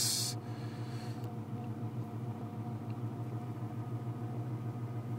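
Ford Mustang engine idling steadily, heard from inside the cabin. A brief burst of noise comes right at the start.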